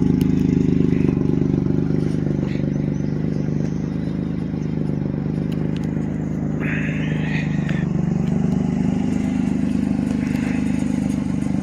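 1990 Ford Taurus SHO's 3.0-litre Yamaha V6 idling steadily while it warms up after a cold start.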